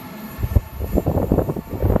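A train passing through the station, with irregular low thuds and rumbles like wind buffeting the microphone.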